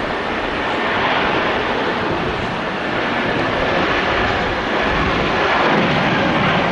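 Jet airliner engines running loud on or near the runway: a steady, dense rush of jet noise.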